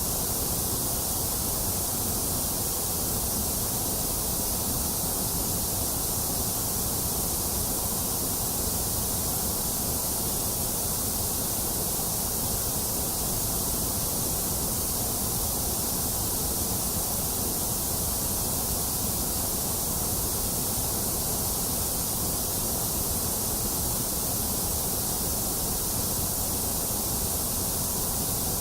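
Steady generated white noise: an even, unbroken hiss with no changes.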